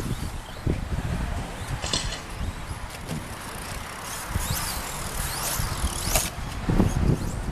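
Electric radio-controlled stadium trucks racing on a dirt track, their motors whining high and sliding up and down in pitch as they accelerate and brake. A low rumble runs underneath.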